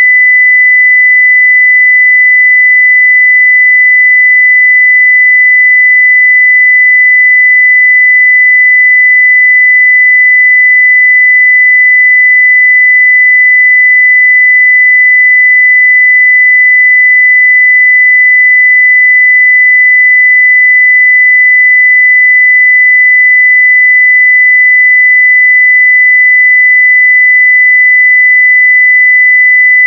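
A continuous 2 kHz sine-wave test tone at full level (0 dB), a single steady pure tone with no change in pitch or loudness.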